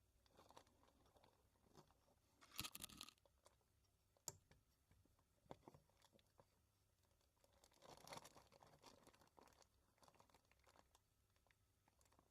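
Near silence with a few faint, scattered rustles and clicks, like small handling noises. There is no steady running machine.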